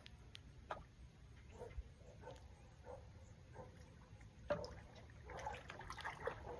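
Faint small splashes and drips of water, scattered through and a little busier in the second half.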